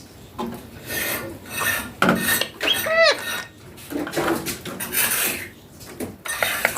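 Indian ringneck parakeet chattering in raspy, scratchy bursts, with one short arched squawk about three seconds in.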